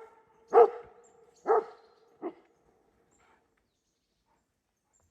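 Dog barking three times in quick succession, the last bark shorter and quieter, each trailing off in a brief echo. The dog is reacting to trees cracking in the forest.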